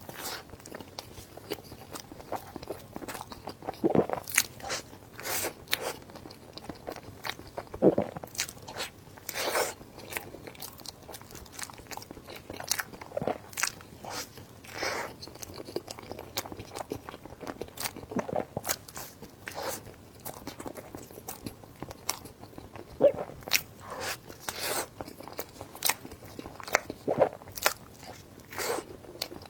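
Close-miked eating: irregular biting, crunching and chewing, with many short clicks and a few louder crunches.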